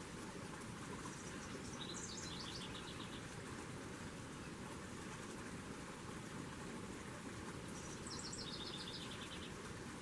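A small songbird sings twice, each song a quick run of high notes stepping down in pitch and ending in a fast trill, over a steady background hiss.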